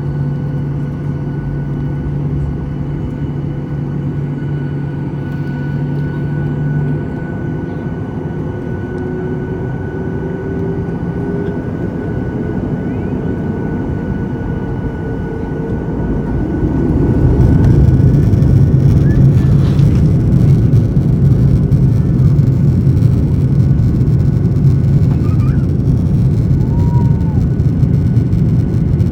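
Boeing 737-800 jet engines (CFM56-7B) running steadily with a few held tones, one of which glides upward. Partway through, the engines spool up to takeoff power and the sound turns much louder and denser, staying loud to the end.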